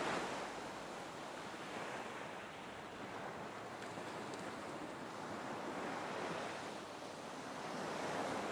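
Ocean waves washing on a shore: a steady surf hiss that swells and ebbs slowly, cresting near the start and again near the end.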